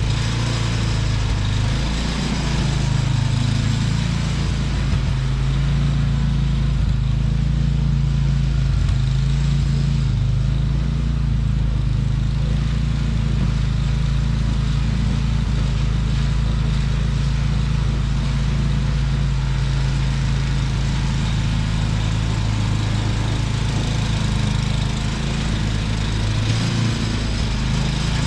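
Small gasoline snowblower engine running steadily, its pitch shifting slightly now and then.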